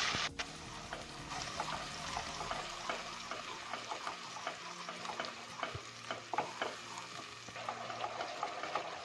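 Ground onion and green chilli paste frying in hot oil in a non-stick pan, stirred with a wooden spatula that scrapes and taps the pan. A loud sizzle drops back a moment in to a steady sizzle under the stirring strokes, the early stage of frying the masala base for a curry.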